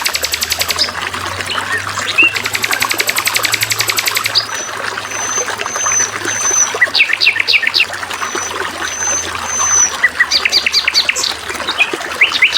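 Water trickling and gurgling, with songbirds calling over it: a fast buzzing trill in the first few seconds, then thin high whistles and quick runs of falling chirps. A faint low hum lies underneath.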